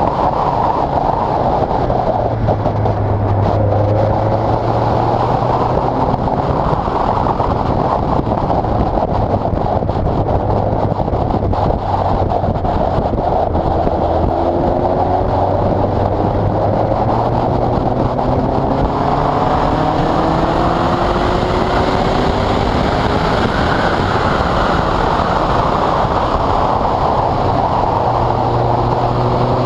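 Westfield sports car's engine running hard on track, its pitch climbing steadily as it accelerates through the gears, dropping, then climbing again near the end, under a steady rush of wind and road noise at the onboard microphone.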